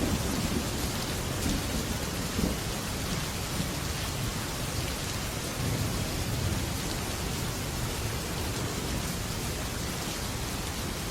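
Heavy rain drumming steadily on a metal roof, with low rolling thunder rumbling in the first half and dying away, leaving just the steady rain.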